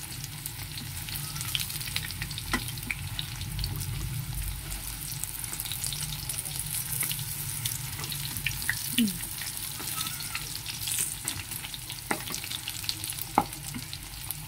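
Battered chicken pieces sizzling in hot oil in a metal pan, re-fried to crisp them up, while a wooden spatula stirs them with scattered scrapes and knocks against the pan.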